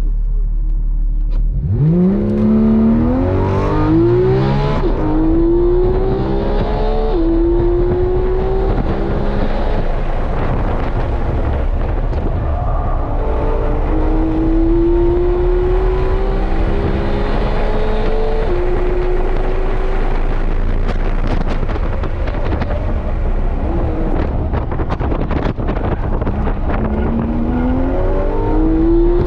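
Porsche 911 GT3 (991.2) 4.0-litre naturally aspirated flat-six heard from inside the cabin at full throttle on track. The revs climb sharply about a second and a half in, then it pulls up through the gears, the pitch rising and dropping back at each quick upshift.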